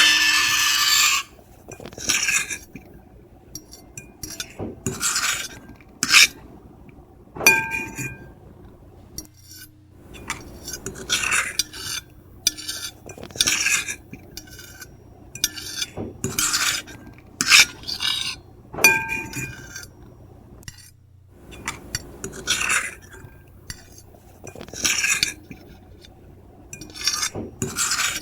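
Metal fork and knife scraping across a plate. A loud continuous scrape stops about a second in, then comes a series of short, irregular scrape strokes, a few of them with a brief high squeal.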